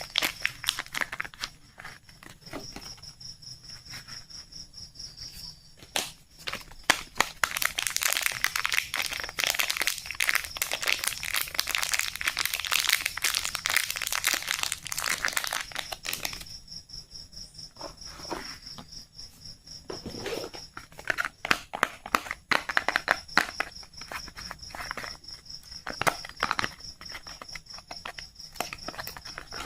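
Soap packaging being crinkled and torn open by hand: a run of crackling, rustling clicks that is densest through the middle. A steady high-pitched whine sits behind it.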